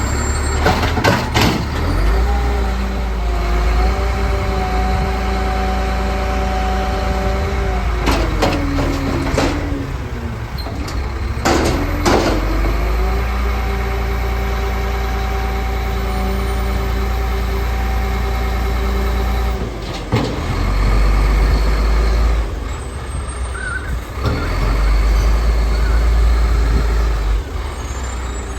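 Garbage truck's diesel engine running, twice rising to a steady whine held for several seconds, then sinking back. Short sharp air hisses come between the whines.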